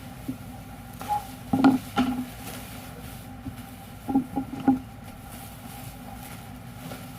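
Machine running with a steady hum, broken by sharp mechanical clacks: one just after the start, a cluster about one to two seconds in, and another cluster about four seconds in, as it works through a glue- or tape-cutting cycle.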